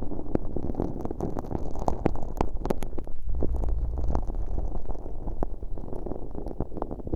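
Close-up ear-cleaning ASMR: sticky, fairly firm slime mixed with fine glitter is worked with an ear pick right against a bare, unwrapped ear microphone. It makes dense, irregular sticky clicks and pops over a low rumble, which grows heavier about halfway through.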